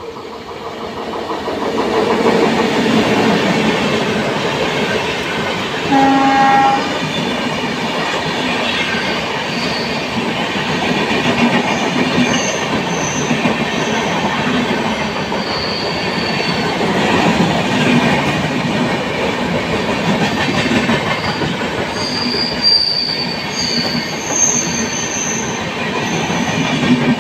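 Passenger train hauled by a WAP-7 electric locomotive running through a station. It builds up over the first couple of seconds into a steady rumble and clatter of coaches passing, with a short horn blast about six seconds in. Thin, high wheel squeals come and go through the second half.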